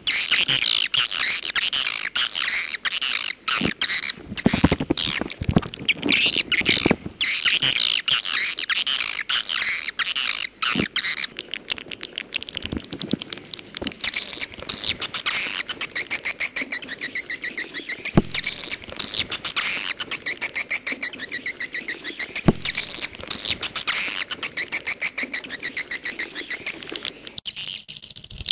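Swiftlet calls of the 'walet jaguar' lure sound: a dense, continuous twittering of rapid high chirps and clicks.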